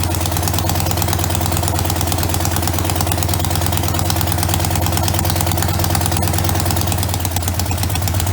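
Douglas T35 350 flat-twin stationary engine running steadily, turning a cut-down propeller, with a fast even beat of firing pulses.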